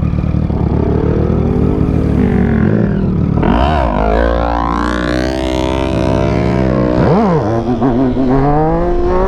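Motorcycle engine running, its pitch rising and falling through several revs, with a quick sharp blip late on, over a low wind rumble.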